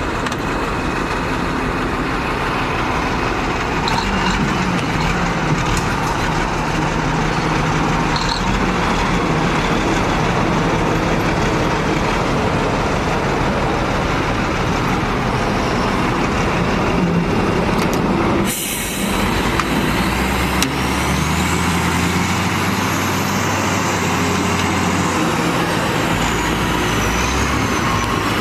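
Heavy vehicle engines running steadily as an old loader tows a loaded truck. About 18 seconds in, the sound cuts abruptly to a different engine with a deep, steady hum.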